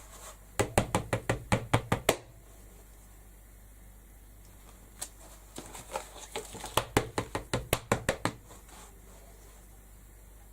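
Rapid dabbing taps of a stamping tool on the craft table, about six a second, in a short run near the start and a longer run from about five seconds in.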